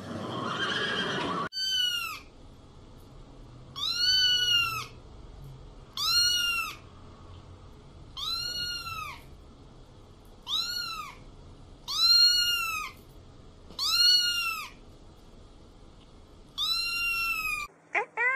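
A kitten meowing repeatedly: eight high-pitched mews, each rising and then falling in pitch, about two seconds apart. Near the end a lower-pitched cat meow comes in.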